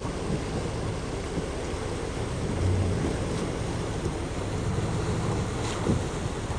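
Off-road vehicle driving, a steady low engine hum under heavy wind and road noise that starts suddenly and swells briefly a few seconds in.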